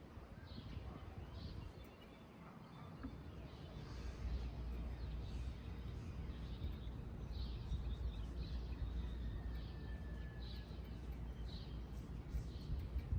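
Birds chirping, short high calls repeating about once a second, over a low rumble that grows stronger a few seconds in.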